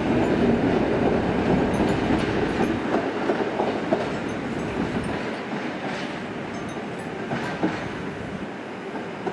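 Pafawag EN57 electric multiple unit rolling away on departure. Its wheels clatter over rail joints and points, and the sound fades steadily as the train recedes, with a couple of sharper clicks near the end.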